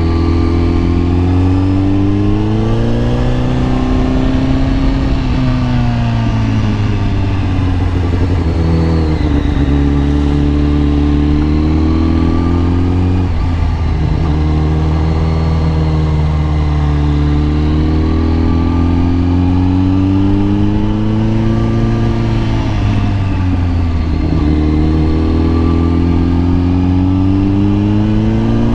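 Kawasaki ZX-10R's inline-four engine under way, its pitch climbing as it pulls and dropping back several times as the throttle is rolled off and opened again.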